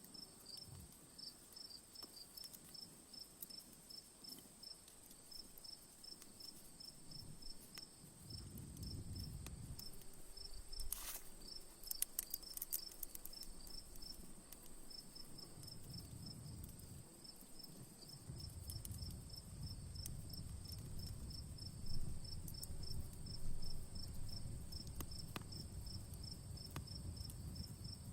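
Crickets chirping in an even, rapid series over a steady high insect trill, with the faint, scattered crackle of a wood campfire beneath. A sharper pop stands out about eleven seconds in, and a low rumble swells in and out through the second half.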